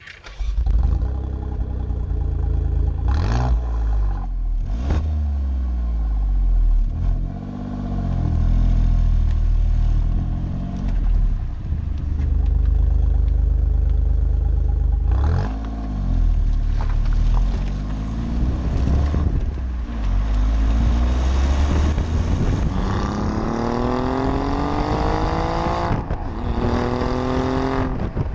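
Alfa Romeo Giulia Quadrifoglio's twin-turbo V6 and exhaust, revved in several quick blips that rise and fall in pitch, running in between. Near the end the revs climb in one long, steady rise over several seconds.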